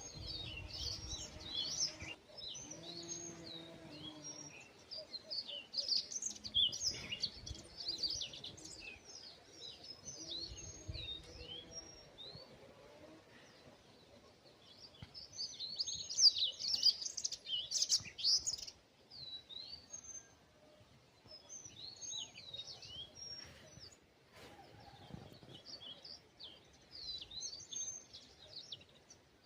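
Many small birds chirping and twittering in quick, high-pitched notes, with denser, louder flurries about five seconds in and again around sixteen to eighteen seconds.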